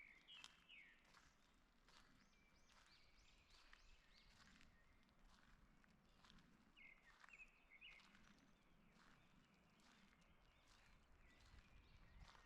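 Faint songbird chirps in a forest, in short clusters at the start and again about seven seconds in, with other scattered high chirps between. Soft footsteps on the forest path lie underneath.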